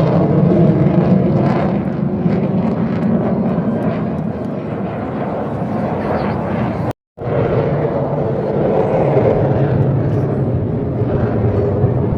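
Aircraft flying over at an air show: a loud, steady rushing engine noise, heaviest in the low and middle range. It breaks off abruptly for a moment about seven seconds in, where the recording is cut, then carries on.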